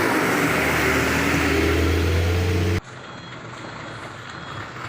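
Loud, steady engine of a heavy diesel truck running close by. It cuts off abruptly about three seconds in, leaving quieter road background noise.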